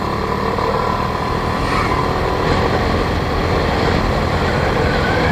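Motorbike engine running steadily under load while climbing a steep hill. Its faint engine tone sits under a dense, even rushing noise from the ride.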